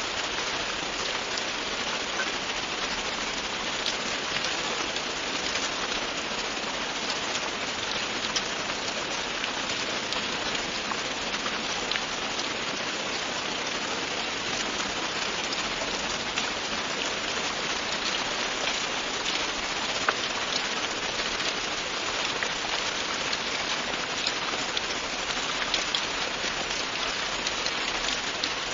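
Steady, continuous rain falling on a surface, a dense even hiss with scattered individual drop ticks.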